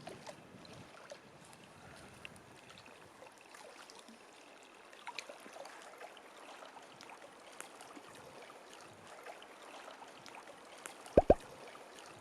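Quiet lakeside ambience with faint small clicks and light water gurgling. Two sharp knocks come in quick succession near the end.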